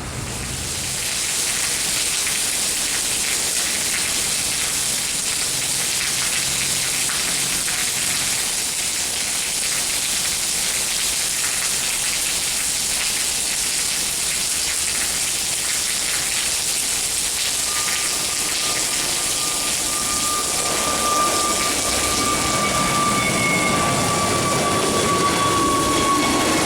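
Heavy rain falling steadily. About two-thirds of the way in, a jet aircraft's high engine whine comes in and slowly falls in pitch, with a low rumble building toward the end.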